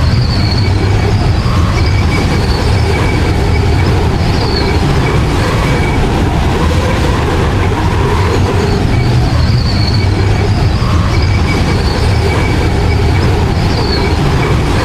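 Strong blizzard wind blowing, a loud continuous roar with faint wavering whistles above it.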